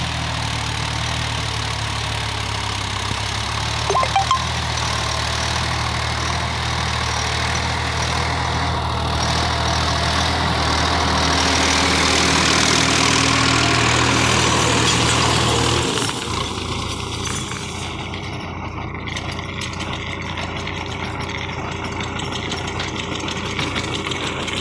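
Tractor diesel engine running steadily with a low drone. About two-thirds of the way through the sound changes abruptly to a lighter, noisier engine sound without the low drone.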